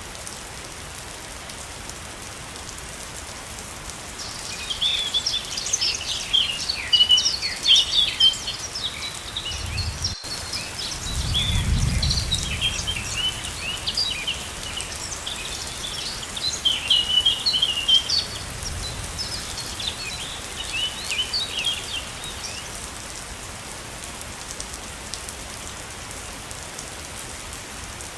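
Steady rush of a waterfall, with small birds chirping in quick, busy runs from a few seconds in until past the middle. A low rumble swells briefly around the middle.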